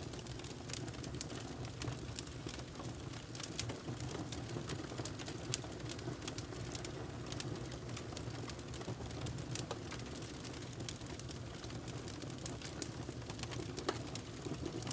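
Wood fire burning in a fireplace: a steady low rumble and hiss with many sharp, irregular crackles and pops from the burning logs.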